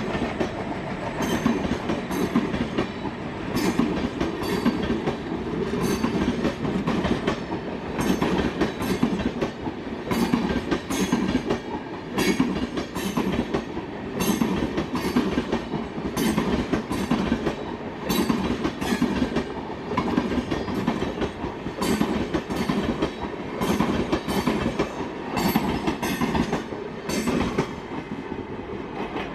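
Passenger train coaches running past at speed, their wheels clicking over the rail joints in a steady clickety-clack over a continuous rumble. The clicking stops near the end as the last coaches move away.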